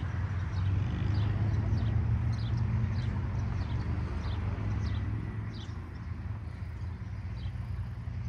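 Birds chirping: many short, high chirps that fall in pitch, several a second, over a steady low rumble.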